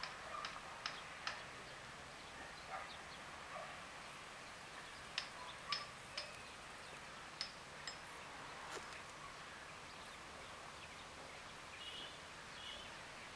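Faint outdoor ambience with scattered short, sharp bird chirps, a few brief higher notes near the end.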